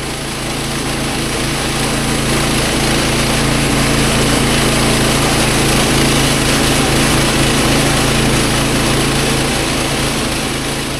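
The gasoline engine of a manual band sawmill runs steadily at speed, with the hiss of the band blade cutting through a wide log.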